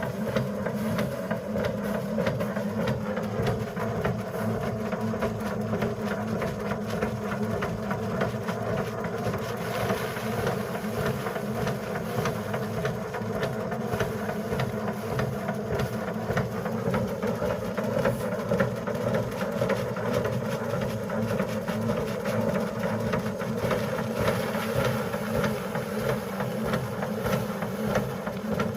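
A motor running steadily under load, its pitch stepping up slightly a little past halfway.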